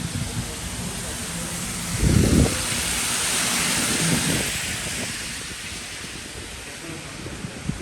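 A car driving past on a wet road: tyre hiss swelling up about two seconds in and fading away over the next few seconds, with a low rumble as it comes near, over steady rain-wet street noise.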